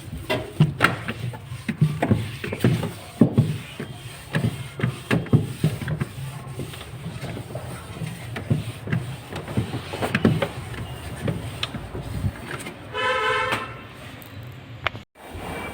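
Cloth wiping and small clicks and knocks against the refrigerator's shelves over a steady low hum. Near the end a vehicle horn honks once for about a second.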